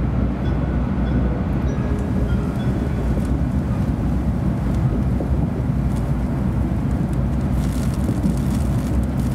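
Steady rumble of a 700 Series Shinkansen running at speed, heard from inside a passenger car.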